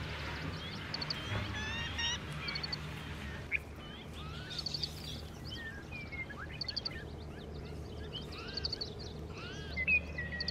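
Several birds chirping and calling in short rising and falling notes and quick high trills, over a steady low background hum, with a brief click near the end.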